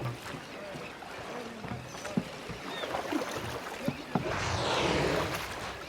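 Water splashing and sloshing with scattered small knocks, as around a paddled boat. A larger wash of water swells about four and a half seconds in.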